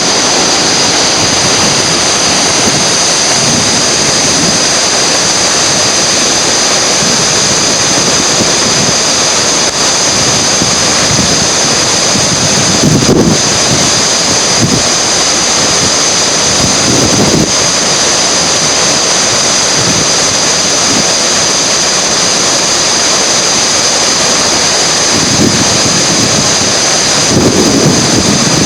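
Steady rushing noise of whitewater in a river rapid, with wind buffeting the microphone in a few short gusts.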